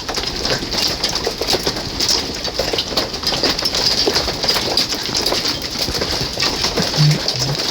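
Large hailstones and heavy rain coming down hard, a dense, continuous clatter of many separate impacts. Three short low tones sound near the end.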